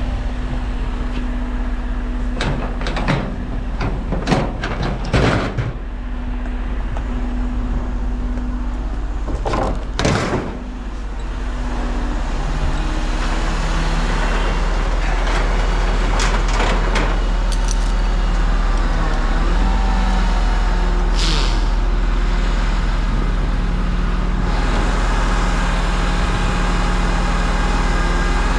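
Heavy truck's diesel engine running steadily, with several sharp knocks and clunks in the first ten seconds or so.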